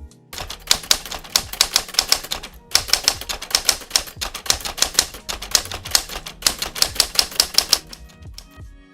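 A rapid run of sharp keystroke-like clicks, about five or six a second, with a brief break a little under three seconds in. The clicks stop about a second before the end, leaving faint tones.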